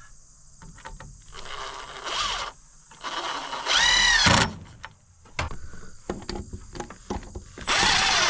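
Cordless drill driving screws to fasten metal strap ties to the wooden roof framing, in three short runs: one about a second in, one about four seconds in whose pitch rises and falls, and one near the end, with small clicks between.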